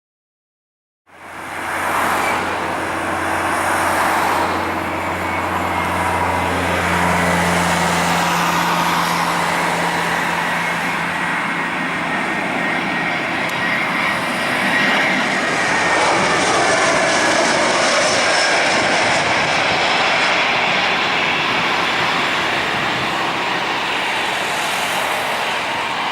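The CFM56 jet engines of an Airbus A319 airliner, running loud and steady. The sound starts abruptly about a second in, with a low hum under it that fades out after several seconds.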